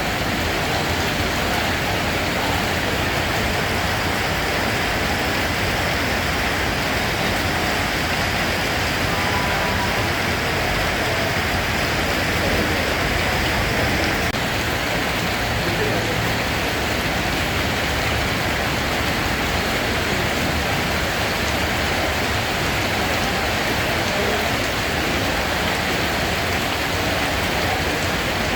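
Steady rain falling: an even, unchanging hiss with a low rumble beneath it.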